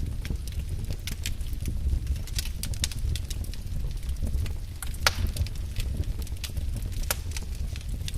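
Wood fire burning in a fireplace: irregular sharp crackles and pops over a low, steady rumble, with a louder pop about five seconds in.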